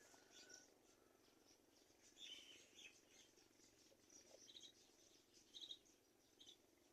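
Faint, short bird chirps, a few scattered ones about two, four and a half, five and a half and six and a half seconds in, over a steady faint background hiss.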